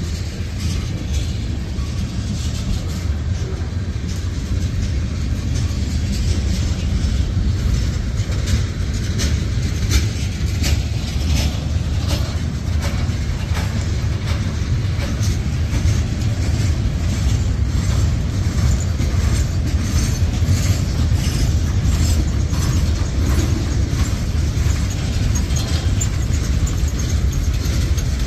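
Mixed freight train cars rolling past at close range: a steady low rumble of steel wheels on rail, with frequent clicks and clanks throughout.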